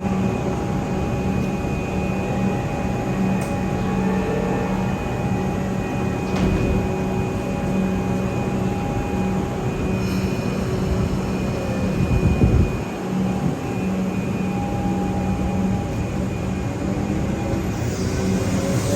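Electric suburban train at a station platform, giving a steady hum made of several constant tones, with a brief low rumble about two thirds of the way through.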